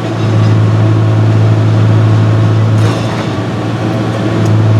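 John Deere 6068 non-turbo six-cylinder diesel engine running steadily, a loud even drone with a strong low hum.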